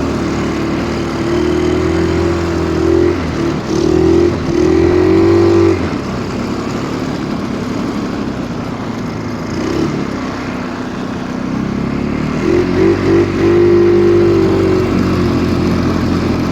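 Stels Kapitan Long snowmobile engine labouring in deep snow, revving hard in wavering bursts. It eases off to a lower, quieter run in the middle for several seconds, then revs up again.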